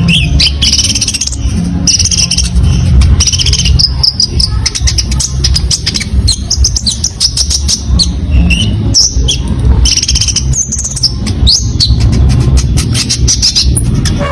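A konin songbird singing a fast, busy string of chirps, trills and short whistles, the varied 'isian' song that mixes in other birds' calls. A steady low rumble runs underneath.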